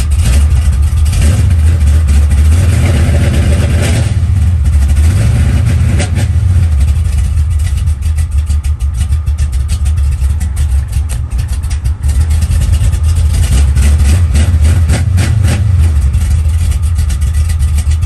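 Car engine with aftermarket exhaust cutouts running loud, still cold after a cold start, its revs rising and falling a few times under the throttle. The engine has just stalled when the throttle was opened, a sign it needs to warm up.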